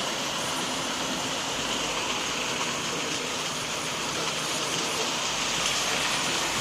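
Hornby 00 gauge model trains running on the layout's track: a steady, even whirring hiss of small electric motors and wheels on rail.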